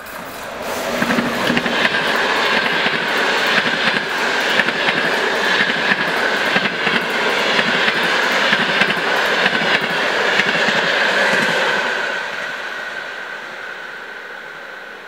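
Passenger train hauled by a TEP70 diesel locomotive passing at speed. The noise builds about a second in as the locomotive and then the coaches go by, with wheels clattering rapidly over the rails and a steady high tone underneath. It fades over the last few seconds as the train recedes.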